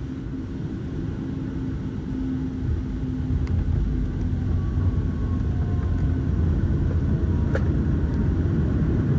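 Boeing 737 MAX 9 airliner touching down and rolling out on the runway, heard from inside the cabin: a low rumble that grows louder about three seconds in.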